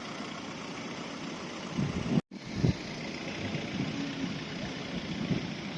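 Car engines idling and running at low revs, with a few brief swells of engine sound; the audio cuts out for an instant a little over two seconds in.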